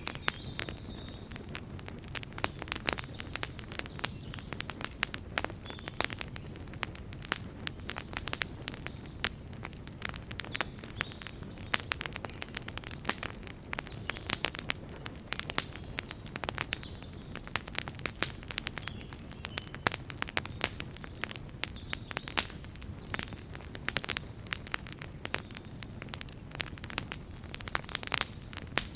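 Bonfire crackling: dense, irregular sharp pops and snaps over a steady low rumble of the burning fire.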